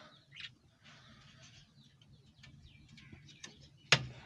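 Faint chirps and cooing from caged birds, with a few light metal clicks. Near the end a single sharp, loud metallic click comes as a stiff cage-door latch is worked open.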